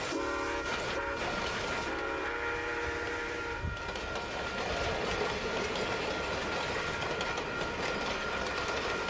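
Freight train's diesel locomotive horn sounding a short blast and then a longer one, followed by the train rolling by with steady wheel-on-rail noise.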